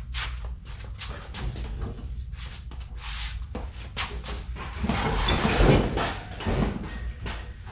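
Metal parts being handled and shifted: a steady clatter of knocks and scrapes, with a louder run of heavy thuds and scraping about five to six seconds in.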